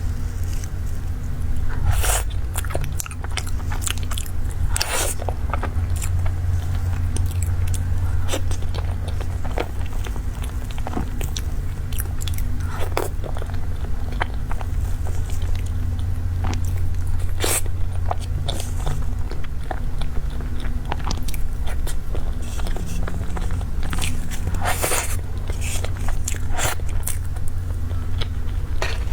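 Close-miked chewing and wet mouth sounds of someone eating cake, with irregular sharp smacks and clicks, over a steady low hum.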